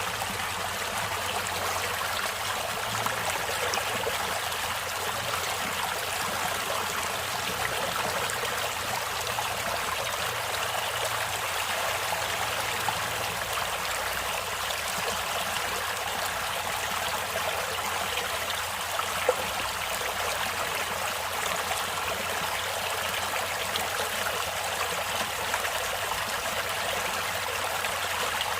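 Stream water running and trickling steadily over rocks, with a few brief splashes or drips, the most marked about two-thirds of the way through.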